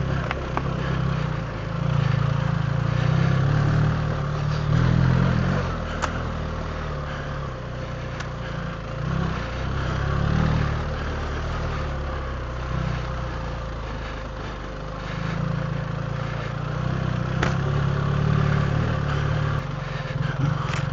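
BMW R 1300 GS Adventure's boxer-twin engine running under way on a dirt road, its note swelling and easing several times with the throttle. A couple of sharp clicks come through.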